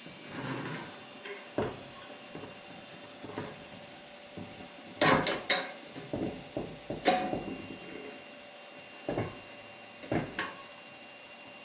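Irregular clicks and knocks of a small metal hurricane lantern being handled, with the loudest cluster about five seconds in and another about seven seconds in.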